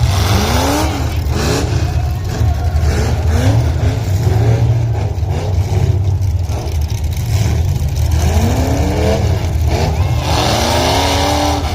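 Race car engines running loud under a heavy steady rumble, revving and accelerating in repeated rises and falls in pitch, with a longer rev near the end.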